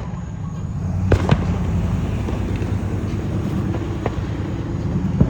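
Backyard fireworks going off: two sharp bangs in quick succession about a second in, then fainter single cracks later, over a steady low rumble.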